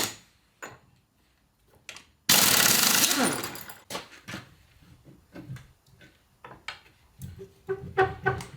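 An impact wrench fitted with a special socket rattles loudly for about a second and a half, starting about two seconds in, as it undoes a nut on a Land Rover Series gearbox, then winds down. Scattered metallic clinks and knocks of tools and gearbox parts follow, with a few ringing clinks near the end.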